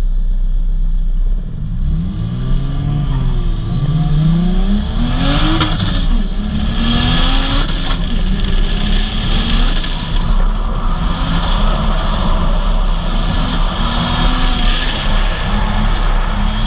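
Turbocharged Lexus IS200 engine revving hard, its pitch rising and falling again and again. A high turbo whine climbs over it several times. Heavy wind rumble on the hood-mounted microphone.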